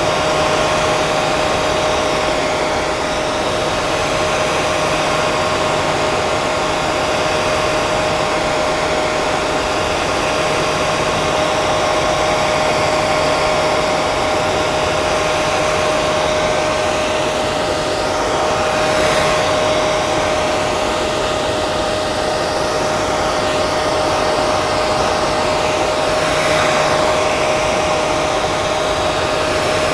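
Hair dryer running continuously: a steady rush of air with a constant motor hum.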